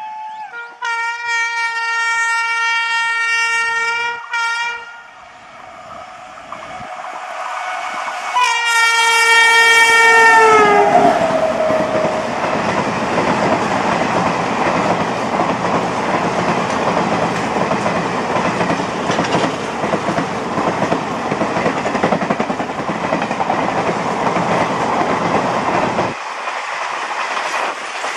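WAP-7 electric locomotive sounding its air horn while approaching at speed: one long steady blast with a short toot at its end, then a second blast whose pitch drops as the engine passes. After that, the steady rumble and clickety-clack of the express's coaches running past on the rails.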